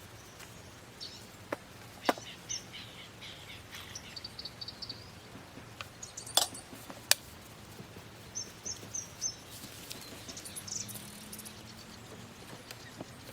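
Small birds calling in quick runs of short, high chirps, with four sharp clicks or snaps cutting in; the loudest two come about six and seven seconds in.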